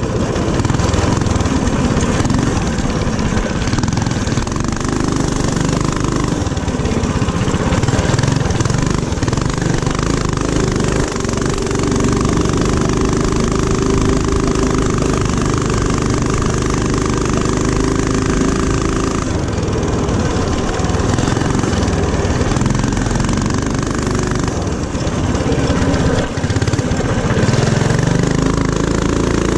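Small single-cylinder mini-bike engine running hard under way, with its pitch changing as the throttle is worked and an abrupt change about two-thirds of the way through.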